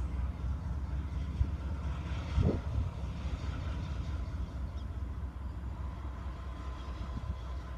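Diesel locomotives of a BNSF freight train, a low steady rumble as the train approaches. Brief low thumps of wind buffeting the microphone, the loudest about two and a half seconds in.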